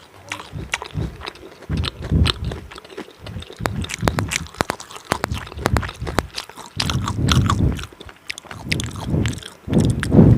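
A person chewing food close to the microphone, with many sharp wet mouth clicks over repeated chews in uneven bursts.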